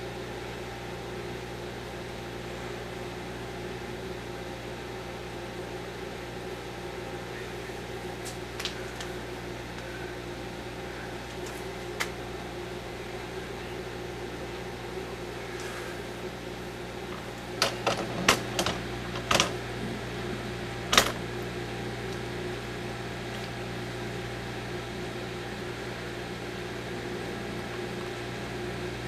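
Microwave oven running with a steady hum from its magnetron and fan while heating a bar of soap. A few sharp clicks break in, most of them in a cluster from about 17 to 21 seconds in.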